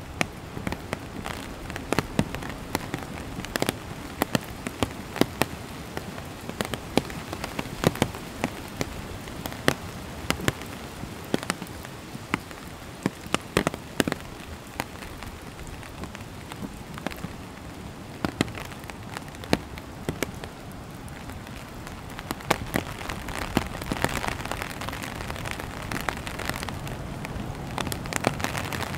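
Steady rain falling through forest, a constant hiss with many loud single drops hitting close by at irregular intervals. The rain grows louder about two-thirds of the way through.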